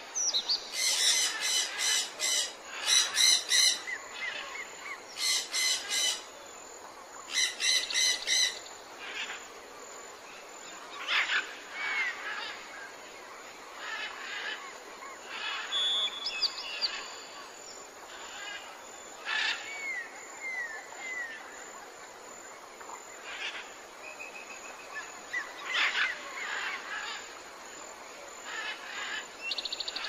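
Wild birds calling and chirping. A loud, rapidly repeated call comes in several bouts during the first nine seconds, then scattered chirps and short whistled glides follow, over a steady faint outdoor hiss.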